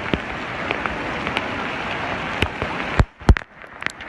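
Heavy rain pouring down in a dense steady hiss, with scattered sharp drop clicks. Two loud knocks come about three seconds in.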